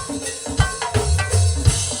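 Live gospel band music: drum kit and percussion keep a fast, steady beat, with a low bass note held about a second in.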